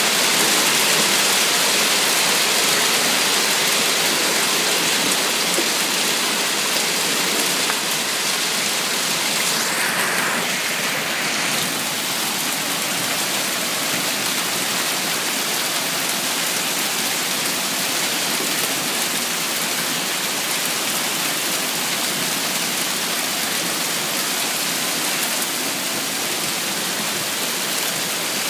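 Hail and heavy rain pelting down: a dense, steady hiss of countless small impacts.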